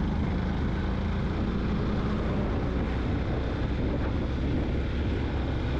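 Yamaha motorcycle riding steadily at road speed: a steady engine and road rumble with wind rushing over the microphone.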